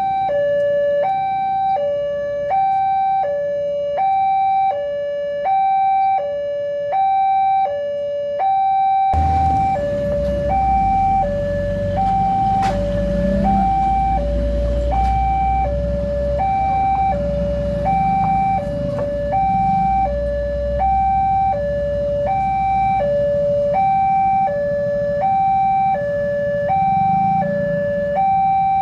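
Railway level-crossing warning alarm sounding: an electronic two-tone signal alternating between a lower and a higher note about once a second, warning that a train is approaching. About nine seconds in, a low rumble and background noise come in under it.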